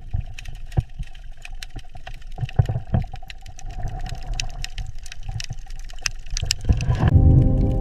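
Underwater-style water ambience: a steady low rumble with many scattered sharp clicks and a faint steady hum. Music with sustained notes comes in near the end.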